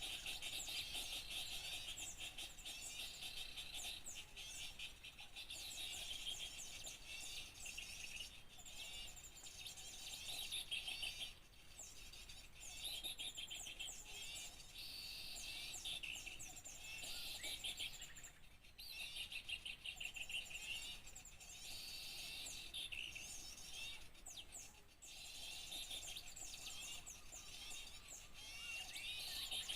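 Many small songbirds chirping and twittering at once in a dense, busy chatter of rapid high trills, with a few brief lulls: a mixed small-bird lure recording.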